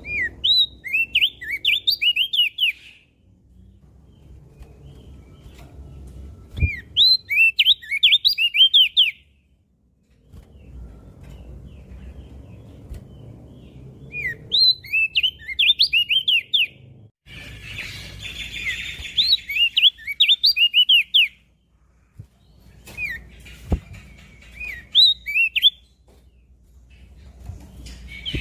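Crested white-eye (opior jambul) singing: five quick phrases of rapid, sweeping whistled notes, each lasting two to three seconds, with short pauses between them.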